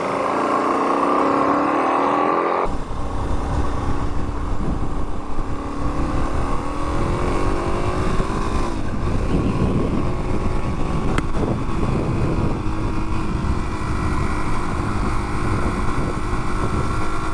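Dual-sport motorcycle engine running under way, its pitch rising and falling with the throttle. About three seconds in a heavy wind rumble on the microphone comes in under the engine and stays, with a single sharp click about eleven seconds in.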